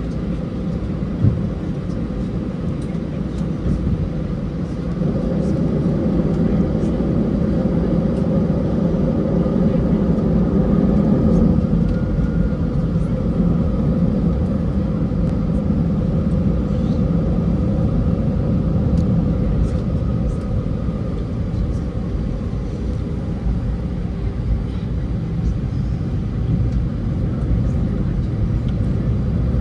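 Airbus A320 cabin noise: the jet's engines and airframe making a steady rumble, which gets louder about five seconds in and holds.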